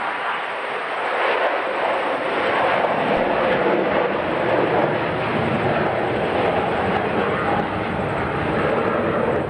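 Airbus A350's Rolls-Royce Trent XWB jet engines running at high thrust as the airliner departs, a loud steady jet roar that swells about a second in and gains a deeper rumble after a few seconds.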